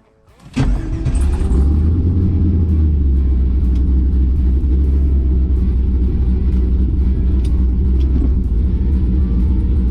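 No-prep drag race car's engine running with a loud, deep, steady rumble that comes in suddenly about half a second in.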